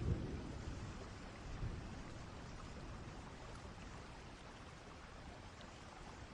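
Steady rain with low rumbles of distant thunder, the strongest right at the start and a weaker one about a second and a half in.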